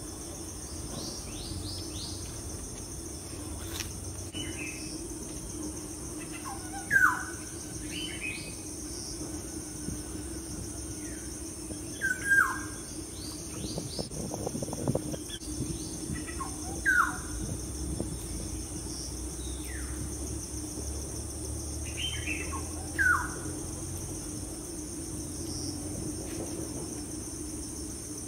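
A bird repeating a short call that slides down in pitch, about every five seconds, with fainter higher chirps between. Underneath are a steady high-pitched drone and a low hum.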